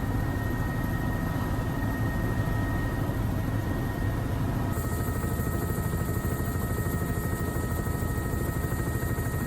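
Helicopter in flight, heard from inside the doors-off cabin: the fast beat of the rotor under a steady engine whine, with wind noise.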